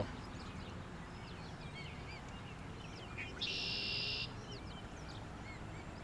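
Small birds calling: scattered short chirps throughout, with one buzzy trill lasting under a second, about three and a half seconds in.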